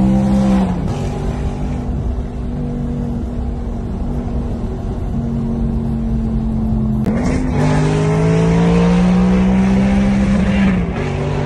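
Maserati GranTurismo's engine heard from inside the cabin, pulling through the gears. The engine note climbs slowly and drops at each upshift: about a second in, about seven seconds in and near the end.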